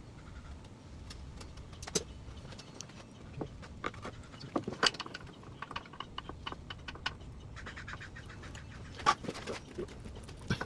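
Scattered sharp clicks, taps and metallic clinks of hands and tools working on engine-bay parts, with louder knocks about two, five and nine seconds in.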